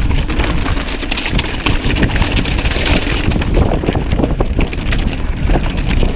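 Strong wind buffeting the microphone over the rattle and clatter of a Trek Slash mountain bike riding down a rocky trail, with a rise of hissing tyre-on-gravel noise around the middle.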